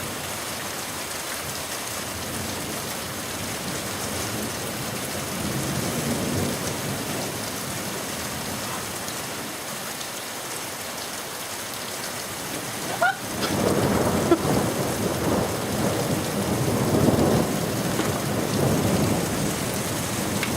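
Thunderstorm: steady rain falling, then about two-thirds of the way through a sudden crack of thunder followed by a long rolling rumble.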